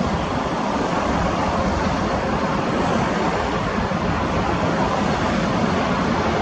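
Steady rushing noise with an uneven low rumble: aircraft engine noise at the airport, with wind buffeting the microphone.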